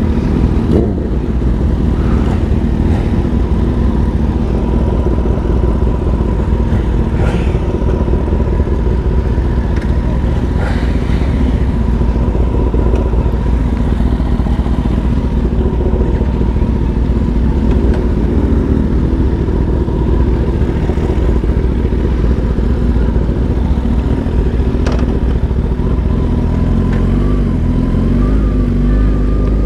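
Sport motorcycle's engine running steadily under a heavy low rumble, its pitch rising near the end. It is most likely the rider's own Kawasaki ZX-10RR, an inline-four.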